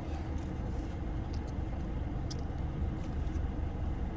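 Steady low rumble of a car, with a few faint ticks.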